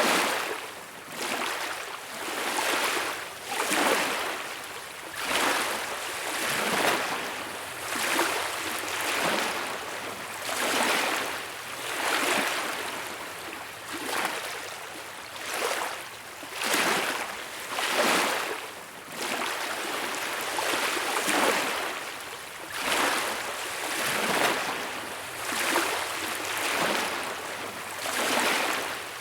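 Small waves washing onto a beach: a hissing wash that swells and fades about once every second or so, without a break.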